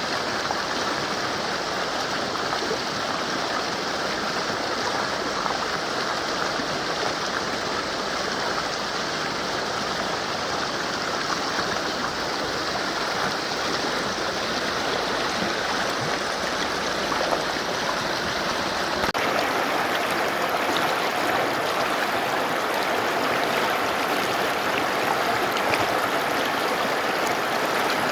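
Mountain river rushing and gurgling over rocks, a steady wash of water noise. About two-thirds of the way through the sound changes abruptly, with less low rumble and a brighter splashing.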